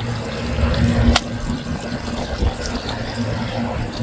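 Water running and spraying into a drum-type chicken plucker over a freshly scalded bird, with a sharp click about a second in.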